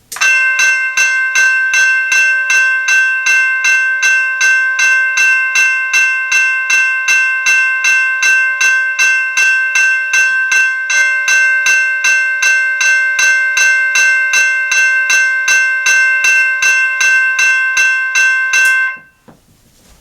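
General Signals Type 2 electronic railroad crossing bell ringing loudly, a fast, even run of metallic-sounding strikes at about two and a half a second. It cuts off abruptly near the end.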